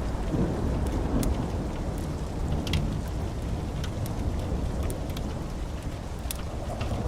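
A low rumble of rolling thunder dying away gradually over steady rain, with scattered sharp crackles.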